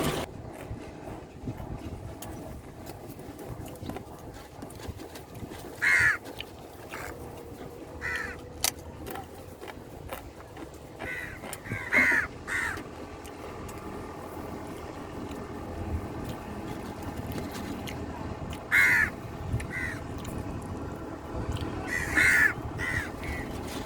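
Crows cawing: short harsh caws, singly and in quick runs of two or three, every few seconds.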